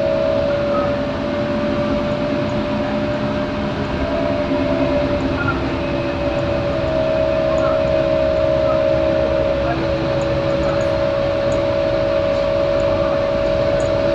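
Scania K230UB single-deck bus running under way, its engine and drivetrain giving a steady whine over a constant rumble.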